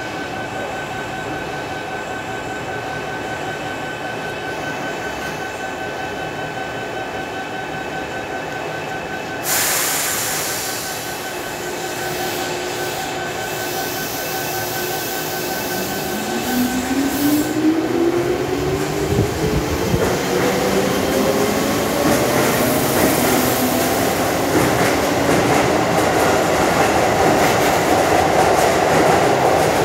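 Keihan 8000 series electric train at an underground platform, standing with a steady hum and then pulling away. A sudden hiss comes about ten seconds in. From about halfway, the traction motors' whine rises in pitch as the train accelerates, and wheel and rail noise grows louder.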